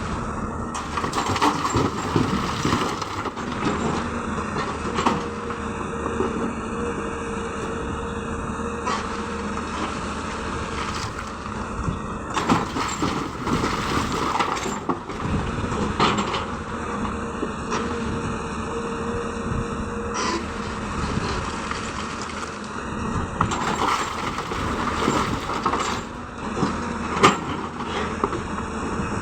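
Hyundai excavator's diesel engine working under load, with a whine that rises in for several seconds at a time and bursts of clattering and knocking every few seconds as stone is loaded into a dump truck.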